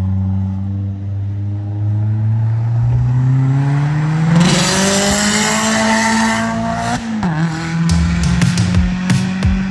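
A car engine accelerating in one long pull, its pitch rising steadily for about seven seconds with a rush of noise over the last few, then dropping off abruptly. Electronic music with a heavy beat comes in about a second later.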